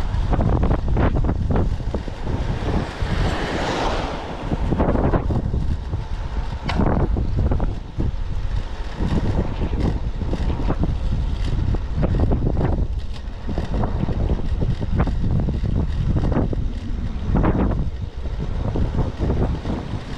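Strong typhoon wind buffeting the microphone in gusts: a loud, continuous low rumble that surges and eases every second or two.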